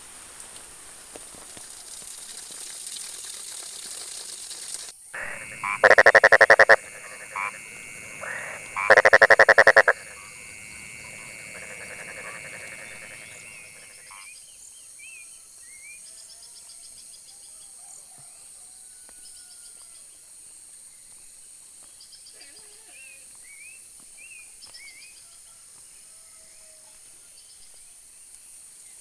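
Steady rain for the first few seconds, then, after an abrupt cut, a frog calls twice very loudly and close, each call a rapid rattling croak lasting about a second. Afterwards a steady high insect drone continues with faint scattered chirps.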